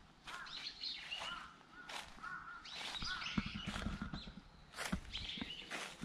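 Birds calling, with repeated short chirping notes throughout, over footsteps on leaf litter about once a second.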